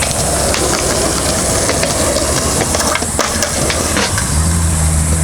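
Cicadas droning steadily and high-pitched over the rumble of skateboard wheels rolling on concrete, with a few sharp clacks from the boards. About four seconds in, a low steady hum sets in.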